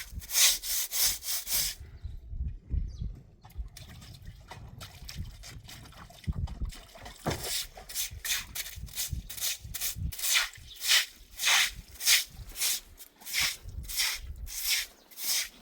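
Rhythmic scraping or rubbing strokes, a couple a second, with a short pause about two seconds in.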